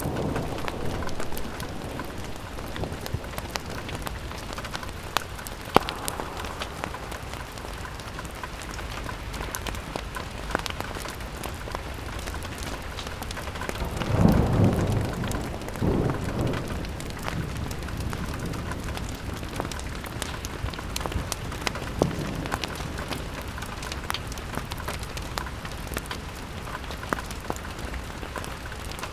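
Steady rain falling on a window, with scattered sharp ticks and pops throughout. About halfway through, a louder low rumble swells for a couple of seconds and fades.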